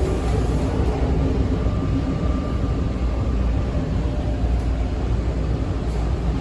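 Toronto TTC T1 subway car running between stations, heard from inside the car: a steady rumble of wheels and running gear with a faint steady whine.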